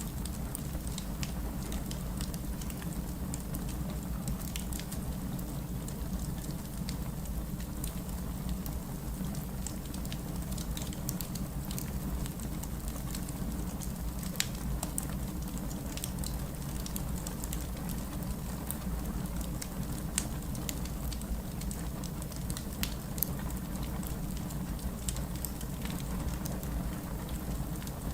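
Wood fire crackling with scattered sharp pops, over a steady hiss of rain and a constant low rumble.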